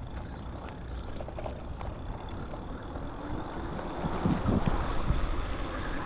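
Wind and road noise from riding an e-bike, a steady rush that grows louder about four seconds in.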